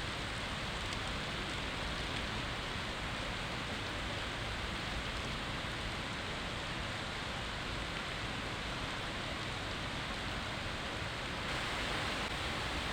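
Heavy rain falling steadily, a constant hiss that grows slightly louder near the end.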